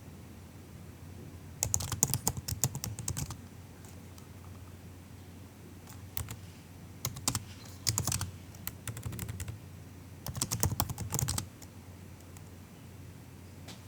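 Typing on a MacBook's laptop keyboard: soft, quick keystrokes in bursts of one to two seconds, with pauses of a second or two between them.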